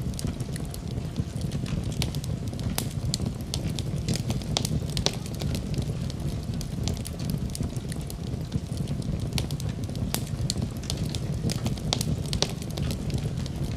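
Fire burning in a fireplace: a steady low rumble of the flames with frequent, irregular sharp crackles and pops.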